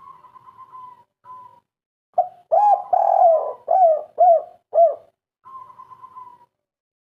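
Spotted dove (tekukur/derkuku) of the three-note 'kuk 3' type cooing: a soft, wavering purr at the start, then a loud run of about six short rising-and-falling coos in the middle, then the soft purr again near the end.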